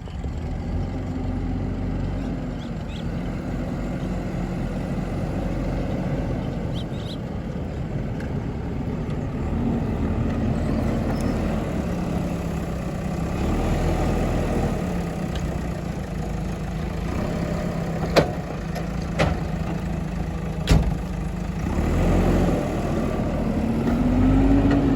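A JCB digger's diesel engine running under working load, its pitch rising and falling as it works and climbing near the end as it revs. There are three sharp knocks about three quarters of the way through.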